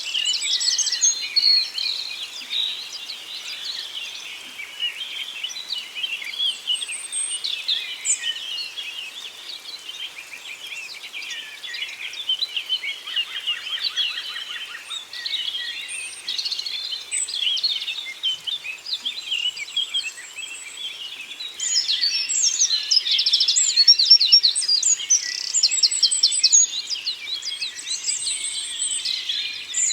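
Many songbirds singing and calling at once, a dense chorus of overlapping chirps, trills and whistles that grows louder in the second half.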